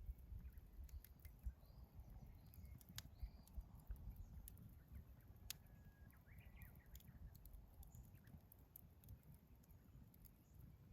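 Wood campfire crackling faintly, with irregular sharp pops and ticks scattered throughout over a low rumble.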